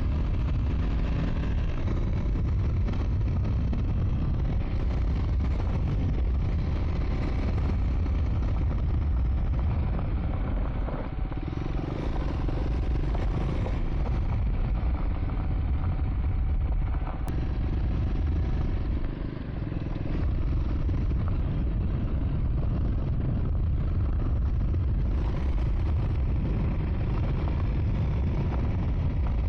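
Triumph Scrambler 400 X motorcycle's single-cylinder engine running steadily as the bike rides along a dirt track, under a steady low rumble.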